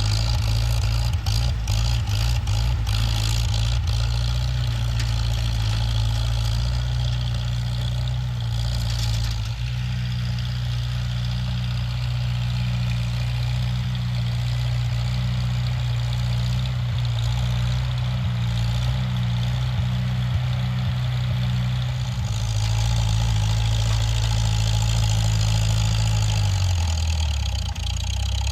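Tractor engine running steadily with a low, even drone. Near the end its speed sags and the pitch drops.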